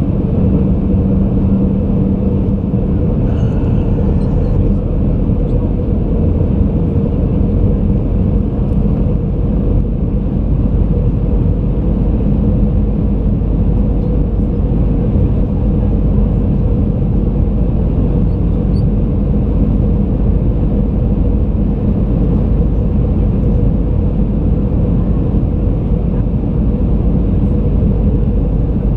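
Airbus A320 cabin noise: a steady, loud rumble of the engines and the airflow over the airframe, with a low hum running through it.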